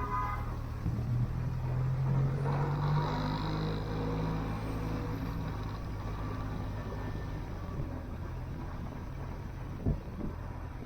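Motorcycle engine running at a steady pace with road and wind noise, and a short knock about ten seconds in.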